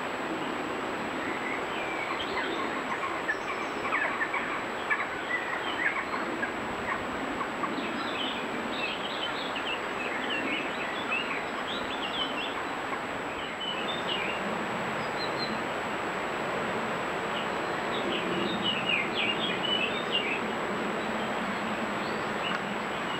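Small woodland birds chirping and singing in scattered bursts over a steady hiss with a thin high electronic whine from the trail camera's microphone.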